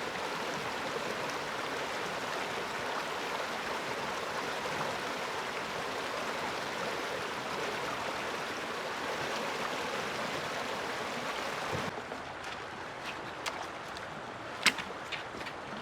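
Rushing water, a steady noise that cuts off abruptly about twelve seconds in. After that it is quieter, with a few sharp clicks and knocks, one louder than the rest near the end.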